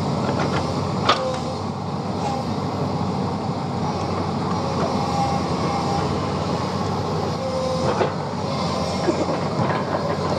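Hyundai excavator's diesel engine running steadily under load, with sharp metal clanks about a second in and again about eight seconds in, and a few brief squeaks.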